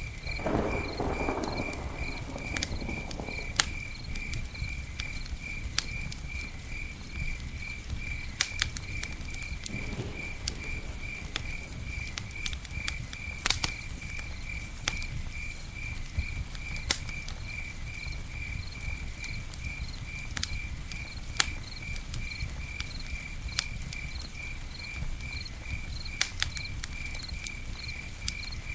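Campfire burning with scattered sharp crackles and pops over a low rumble, and a brief louder rush of fire noise in the first couple of seconds. A cricket chirps steadily throughout, about twice a second.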